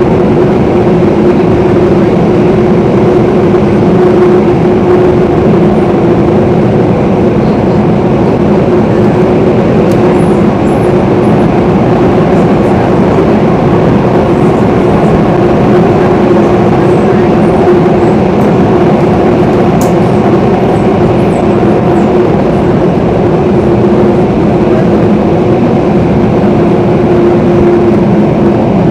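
Singapore MRT train running at steady speed, heard from inside the carriage: a constant rumble of wheels on rail with a steady motor hum.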